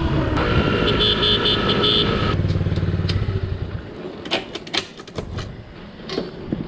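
Honda CT70's small single-cylinder four-stroke engine running, then falling away about four seconds in, followed by scattered sharp clicks and ticks.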